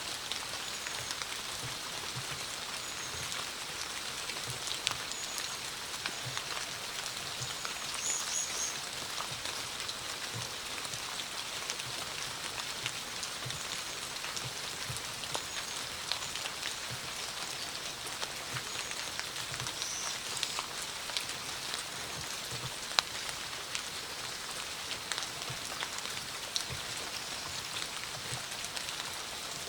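Steady rain falling, with many separate drops tapping close by on a hard surface.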